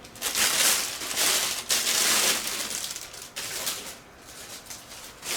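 Packaging rustling and crinkling as it is handled, loudest in the first three seconds and softer after.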